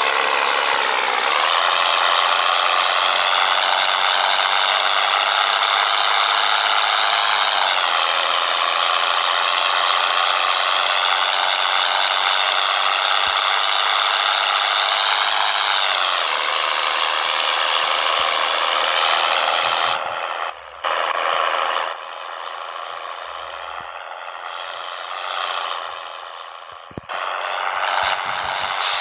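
Scania 113 truck's six-cylinder diesel engine pulling under load, its revs climbing slowly and then dropping sharply at gear changes about eight and sixteen seconds in. It runs quieter in the last third.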